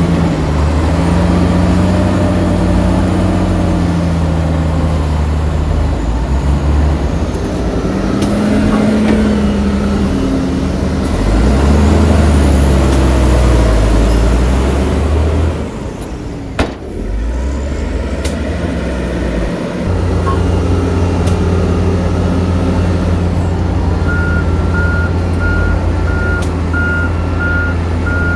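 Heavy diesel earthmoving machinery working, its engines revving up and dropping back under load, with a sharp knock midway. Near the end a reversing alarm starts beeping at an even rate.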